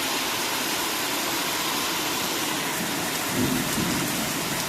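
Heavy monsoon rain pouring down steadily in a thunderstorm downpour.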